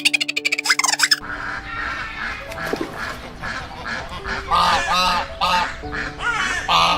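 Waterfowl calling in repeated short honks over soft background music; the honks are loudest in the second half. It opens with a quick burst of rapid clicking chatter in the first second.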